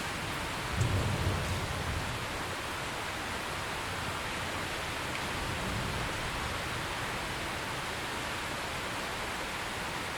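Steady heavy rain hissing, with a low roll of thunder that breaks in about a second in and fades away over the next second or two, and a fainter rumble later on.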